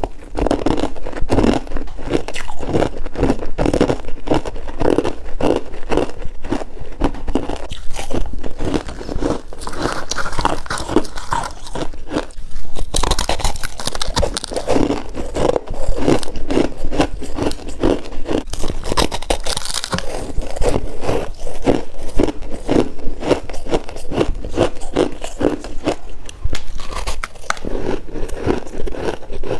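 Freezer frost being bitten and chewed: a dense, irregular run of crunches.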